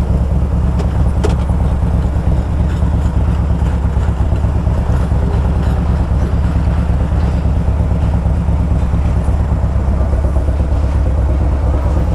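Motorcycle cruising steadily at highway speed: an even engine drone with road and wind noise.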